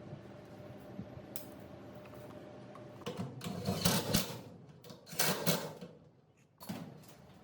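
Mechanical clattering and handling noise, in two louder bouts about three and five seconds in and a short knock near the end, over a steady low hum.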